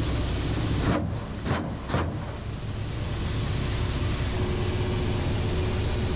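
Military helicopter cabin noise: a steady engine and rotor drone with a deep rumble. About a second in come three sharp clicks within a second, and the noise briefly drops and turns muffled before it comes back up.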